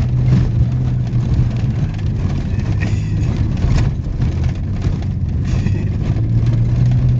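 Trophy truck's engine running at low speed as it crawls up a rocky track, heard from inside the cab, with scattered knocks and rattles from the rough ground.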